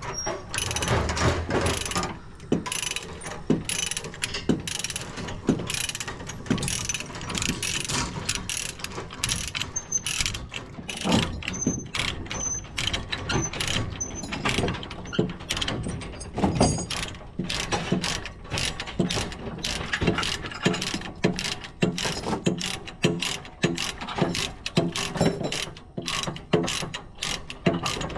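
Metal clanking and rapid ratcheting clicks, irregular and dense throughout: tie-down chains and ratchet binders on a trailer being worked.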